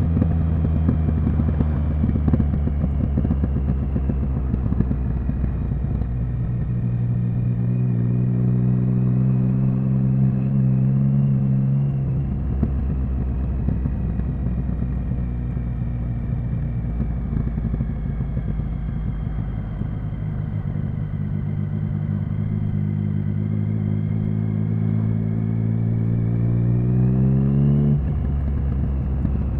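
Triumph Speed Triple 1050's inline three-cylinder engine pulling under way. Its pitch climbs slowly and falls sharply about twelve seconds in, then climbs again, rising steeply near the end before another sharp drop.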